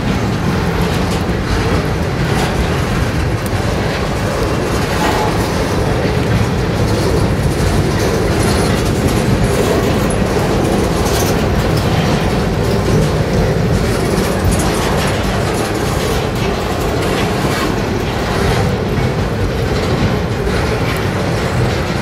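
Freight cars rolling past close by: a steady rumble of steel wheels on rail, with clicks as the wheels cross rail joints.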